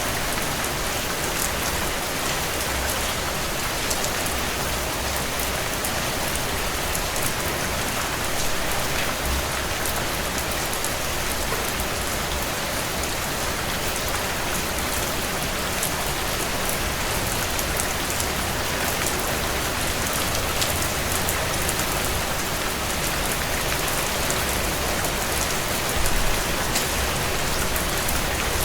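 Heavy rain falling on a tin roof: a steady, dense hiss of rain peppered with sharp drop ticks.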